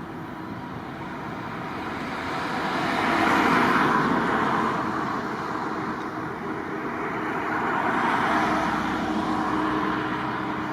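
Vehicles passing over a steady background, the noise swelling and fading twice, loudest about three and a half and eight and a half seconds in.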